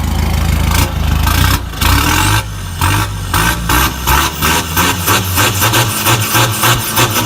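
Mazda BT-50 Pro's 2.2-litre four-cylinder turbodiesel running through a custom mandrel-bent 304 stainless exhaust that exits ahead of the rear axle. It idles briefly, then is revved in a string of short throttle blips that come faster from about four seconds in.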